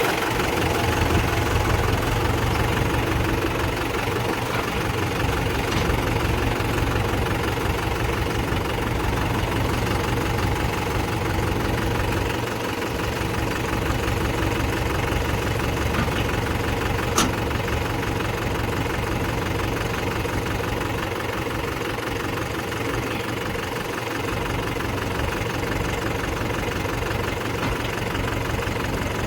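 Diesel engine of a heavy machine idling steadily, with one sharp click about 17 seconds in.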